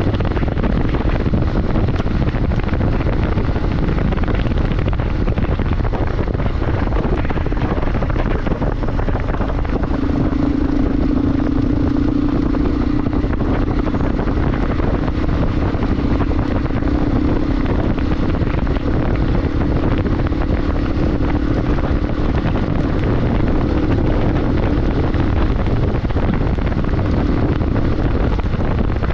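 Motorcycle running at speed, with a constant rushing noise heavy in the low end. A steady engine hum rises above it about a third of the way in and holds until near the end.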